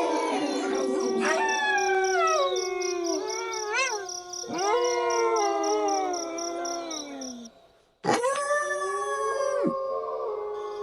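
A pack of wolves howling in chorus, several overlapping howls gliding up and down in pitch. The howling fades out about seven and a half seconds in, then cuts back in suddenly with a new rising howl.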